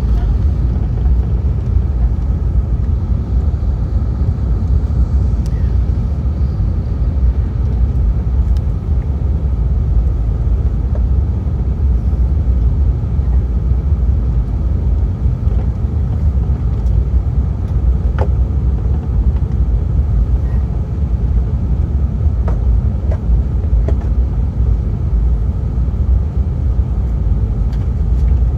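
Steady low rumble of an Airbus A380-800's engines and airflow heard inside the cabin, even and unchanging, with a few faint clicks.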